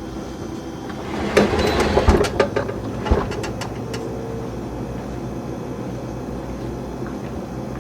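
A steady machine hum throughout, with a burst of loud knocks and clatter about one and a half to three seconds in.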